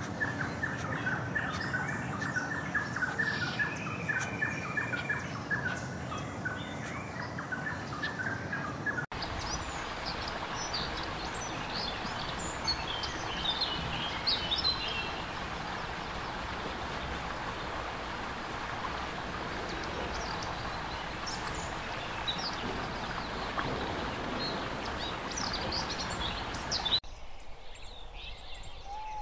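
Outdoor ambience of small birds chirping over a steady hiss. First comes a quick run of repeated chirps, then scattered higher, sharper chirps. The background changes abruptly twice, becoming quieter near the end.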